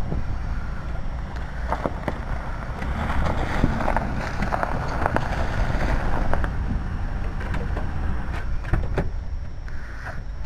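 A car running as it is driven through snow, with scattered crackling clicks over a steady low rumble. Wind is buffeting the microphone.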